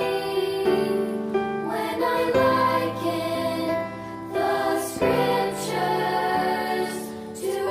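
Background music: a choir singing a slow Christian song in long held phrases.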